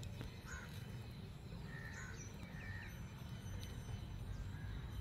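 Faint outdoor background with a few small bird chirps, including a quick run of four short falling notes about two and a half seconds in, over a low steady rumble.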